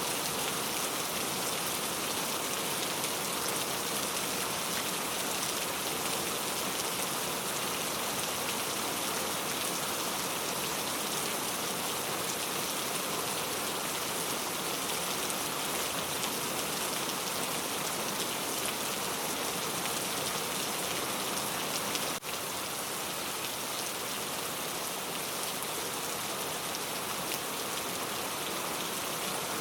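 Steady, dense rain making an even hiss. There is one faint click about three-quarters of the way through, after which the rain is slightly quieter.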